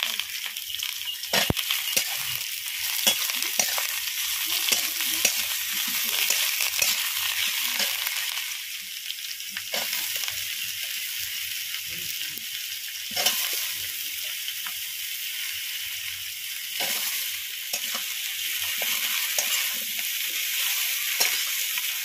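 Wet taro stems and greens sizzling in hot oil in a metal wok, with a metal spatula scraping and stirring through them. A steady frying hiss, broken by a few sharp knocks of the spatula against the pan.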